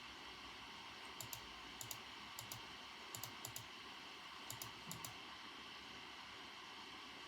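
Computer keyboard keys being pressed slowly and unevenly, soft clicks mostly in pairs and short clusters through the first five seconds, then a pause. A steady faint hiss runs underneath.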